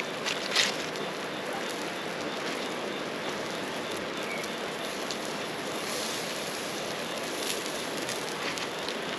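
Steady rushing of water from the nearby river and rain, with a few faint crackles from a campfire.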